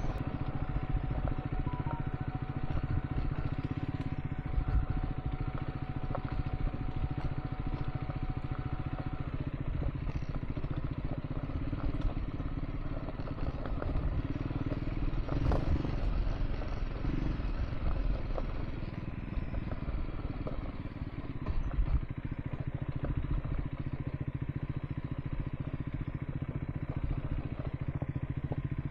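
Triumph Scrambler 400 X motorcycle engine running steadily while riding along a gravel dirt track. Loose stones clatter under the tyres and there is wind noise on the helmet microphone.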